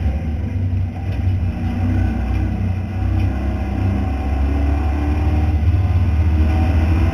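V8 race car engine heard from inside the cabin, running under hard, steady load with a strong low exhaust drone. The level dips briefly about a second in and again around three seconds.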